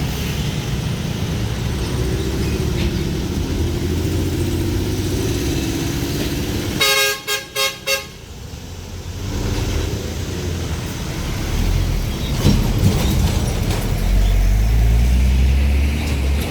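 Heavy truck engines running as they pass, with a vehicle horn sounding four short toots about seven seconds in. A deeper engine rumble builds toward the end as another truck comes through.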